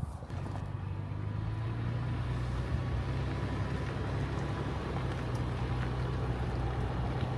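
Car running at a steady pace: a low, even engine drone with road noise that sets in just after the start.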